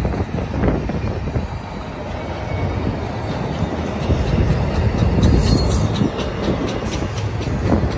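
Double-stack intermodal freight cars rolling past at speed, a steady low rumble of steel wheels on rail, with a brief high squeal from the wheels about halfway through.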